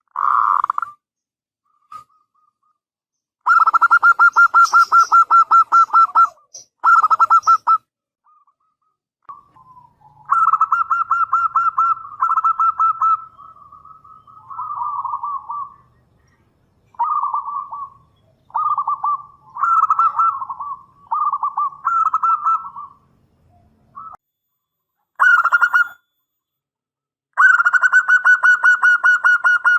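Zebra dove (perkutut) cooing: phrase after phrase of rapid, pulsed coos, each lasting a second to about three seconds, with short pauses between them.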